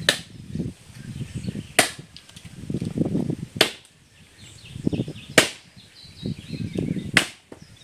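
Wood being chopped with a hand blade: five sharp, evenly spaced strikes, about one every second and three quarters.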